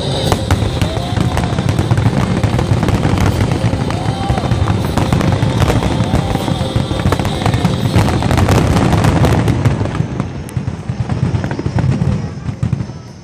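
Dense barrage of aerial firework shells bursting in rapid succession, with continuous booming and crackling. About ten seconds in, the barrage thins out and gets quieter.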